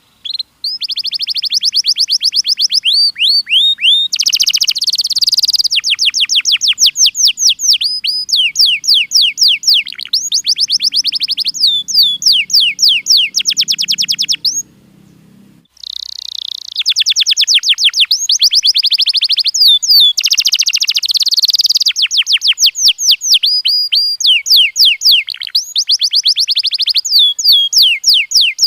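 Domestic canary singing: long trills of rapidly repeated sweeping whistled notes, the song pausing for about a second a little past halfway before starting again.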